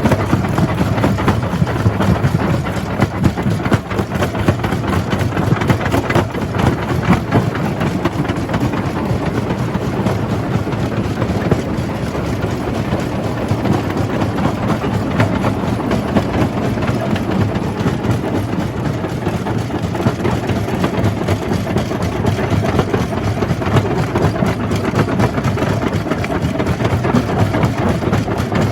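Jaw crusher running steadily under load: a continuous low machine drone with a dense, unbroken clatter of small impacts from rock being crushed.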